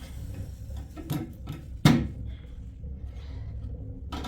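Hammer blows, knocks spaced out unevenly: one about a second in, a louder one near two seconds, and another near the end, over a steady low rumble.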